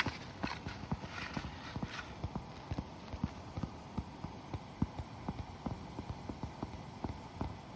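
Wood fire crackling, with irregular sharp pops and snaps several times a second.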